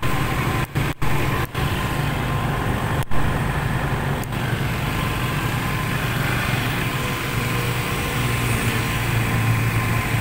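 A motorcycle engine idling steadily, a low even hum. The sound drops out for an instant several times in the first four seconds.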